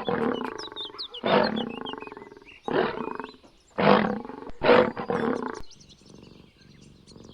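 Lion roaring: a series of loud, deep calls about a second apart, dropping to quieter low calls after about five and a half seconds. Birds chirp faintly in the background.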